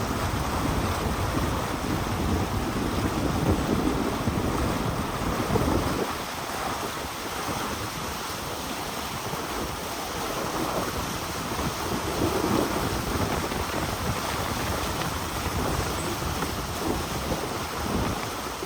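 Wind buffeting the microphone: a rough, gusty rumble that eases for several seconds in the middle, then picks up again.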